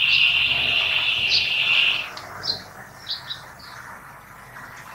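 Small bird chirping: a loud, high trill holds for about two seconds, then a handful of short, high chirps.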